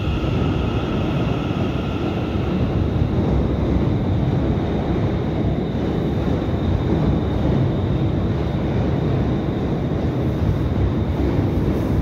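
ScotRail Class 380 electric multiple unit moving along the platform, a steady rumble with a thin steady high tone above it.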